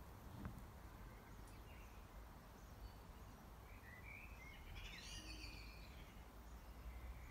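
Near silence with a faint low rumble, and a short bird call, a quick run of chirps, about four seconds in.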